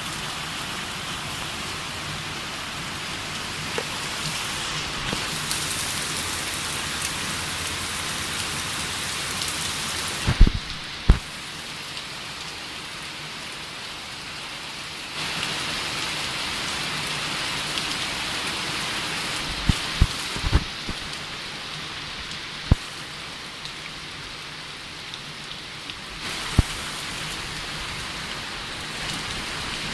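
Steady heavy rain falling with a continuous hiss. A handful of short, sharp low thuds stand out, two close together about ten seconds in and several more around twenty seconds.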